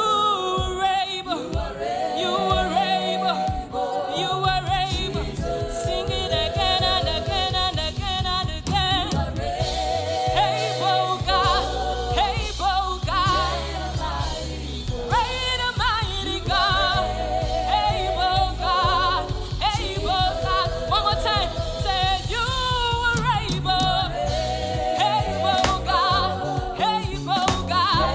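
Live gospel worship music: voices singing with vibrato over sustained bass notes.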